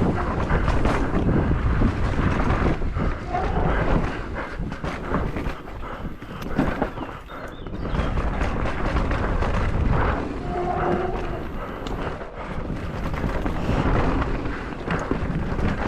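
Mountain bike ridden fast downhill: wind buffeting the microphone over a constant rumble, with frequent short rattles and knocks of the bike over rough ground. A brief pitched call or tone sounds about ten seconds in.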